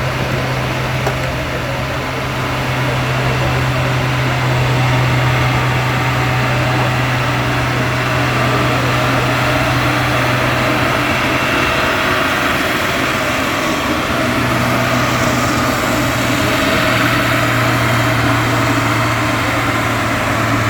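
Ford TW-25 six-cylinder diesel tractor engine running hard under load as it pulls the sled, a steady loud drone whose pitch drops slightly about two-thirds of the way through.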